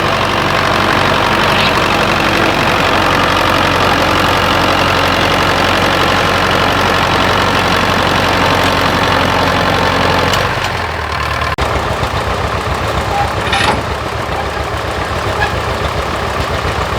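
A steady, loud engine running, which changes abruptly about eleven seconds in to a lower, evenly pulsing engine beat.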